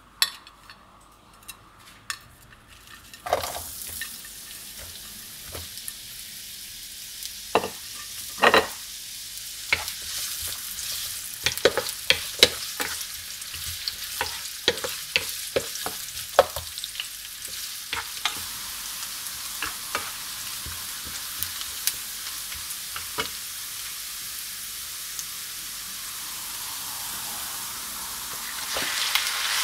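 Sliced onions sizzling in hot oil in a nonstick frying pan, with a wooden spatula stirring and knocking against the pan many times. The sizzle starts about three seconds in as the onions meet the oil. It grows louder and brighter near the end as raw chicken pieces go into the pan.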